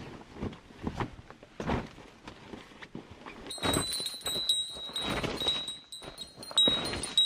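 Footsteps, and from about halfway a small bell or chime starts jingling with a steady high ring and light metallic clicks.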